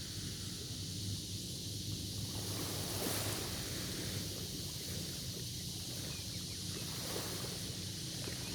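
Sea waves washing in, a steady surf hiss that swells every few seconds, with wind on the microphone.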